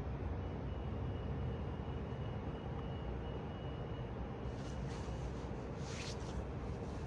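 Approaching New Haven train, a steady low rumble, with a faint high whine and, about five to six seconds in, short bursts of hiss.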